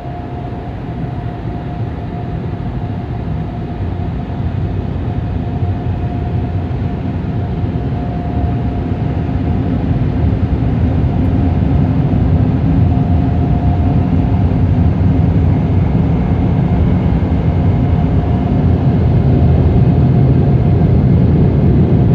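Automatic car wash air-dryer blowers blowing on the car: a strong, steady rush of air with a low rumble and a faint steady whine, growing gradually louder.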